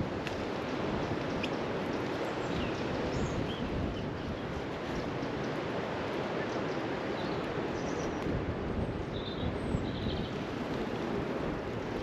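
Steady wind noise on the microphone, with faint, short bird chirps scattered throughout.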